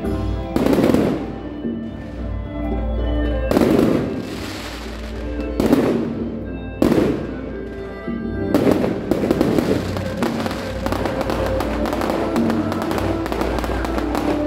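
Fireworks bursting in about five separate booms, each trailing off with a crackle, over music that plays throughout.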